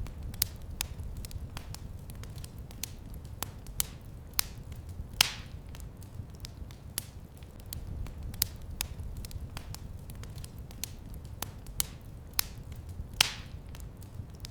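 Wood fire crackling in a fireplace: irregular sharp crackles a few times a second, with two louder pops about five seconds in and near the end, over a low steady rumble.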